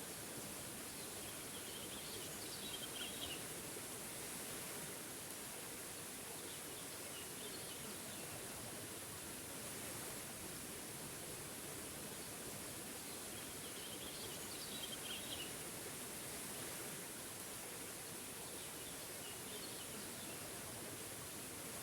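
Waterfall rushing steadily, with a bird chirping in short high bursts every few seconds, clearest twice.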